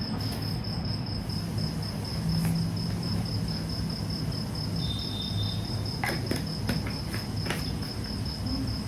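An insect trilling steadily in the background, a high-pitched, finely pulsing chirp, with a few sharp clicks of eating about six to seven and a half seconds in.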